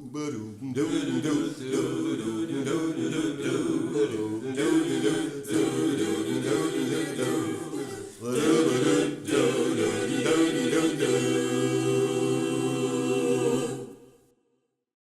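Choir singing a cappella. It ends on a long held chord that cuts off abruptly near the end.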